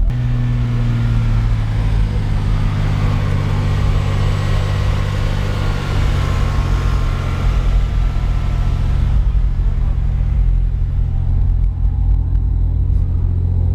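Car audio system playing deep, loud bass tones held steady and changing pitch a couple of times, with a hissing noise over it for the first nine seconds or so.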